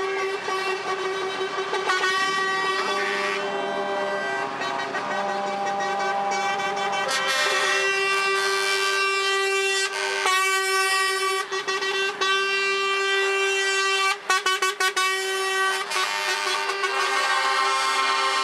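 Several truck air horns blaring together, one held steadily while others start and stop on different pitches, with a quick series of short blasts about three-quarters of the way through.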